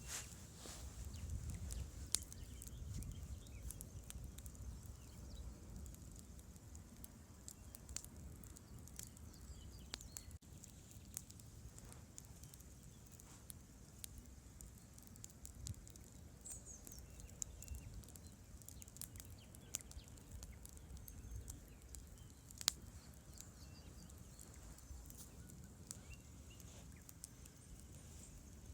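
Campfire burning with faint, irregular crackles and sharp pops over a low, steady rush of river water.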